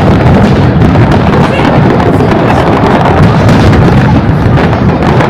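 Fireworks display: many aerial shells going off in quick succession, so dense that the bangs run together into one continuous loud din.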